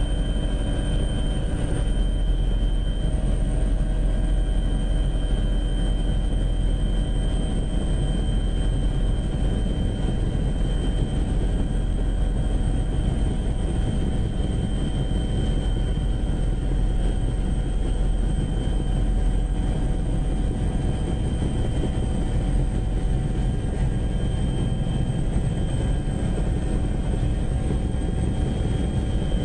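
Aircraft engine running steadily: an unbroken low drone with several constant high-pitched whines over it.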